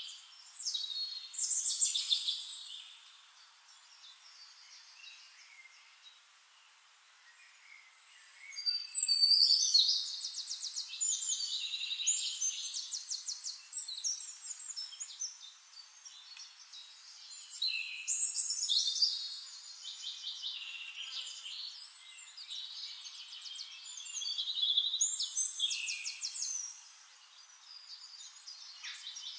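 Songbirds singing in bouts of rapid trills and chirps, with quieter pauses between the bouts.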